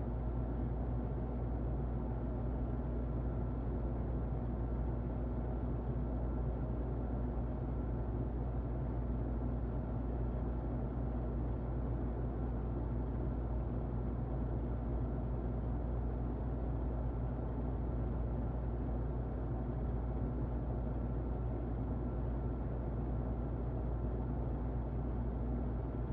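Muffled electric fan running steadily: a low, even whooshing hum with a faint steady whine.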